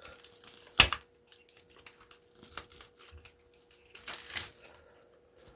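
Scattered clicks and crackles of brittle plastic and metal scrap being worked loose by hand, with one sharp snap about a second in and a busier patch of crackling near the end. A faint steady hum sits underneath.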